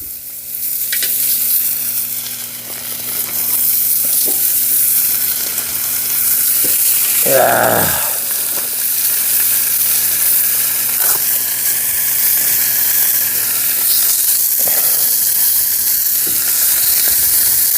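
Lamb ribs sizzling steadily on the hot top of a homemade gas-cylinder wood stove.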